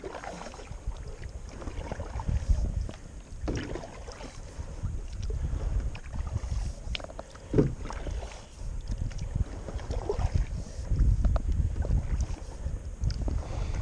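Kayak paddle strokes splashing in the water at an uneven pace as a Lifetime Teton Angler kayak is paddled away, with wind rumbling on the microphone.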